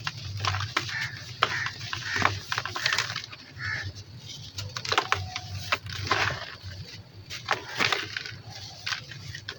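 Dry sand and small crumbly chunks being crushed and breaking apart in irregular crackles and crunches, over a low steady hum.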